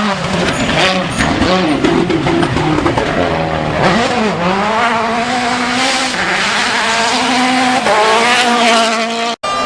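Rally car driven flat out on a special stage, its engine climbing and dropping in pitch through gear changes and lifts. The sound breaks off for an instant near the end.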